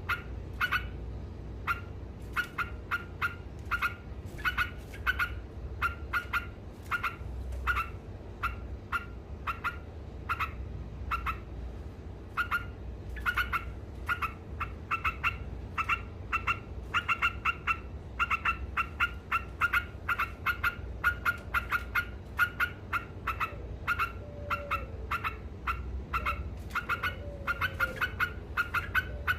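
Yellow-vented bulbul (trucuk) calling in its rapid 'ngekek' chatter: a long, fast run of short, sharp notes, several a second, with only brief pauses.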